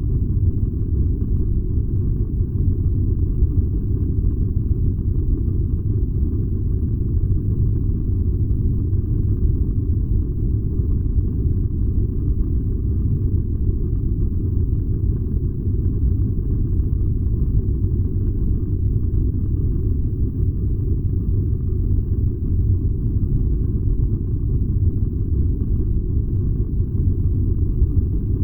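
Furnace running with a steady, deep rumbling roar that does not change.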